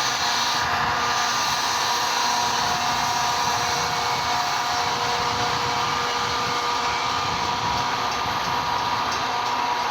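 Metra commuter train rolling past close by: a steady rush of wheel and rail noise with a few steady ringing tones over it.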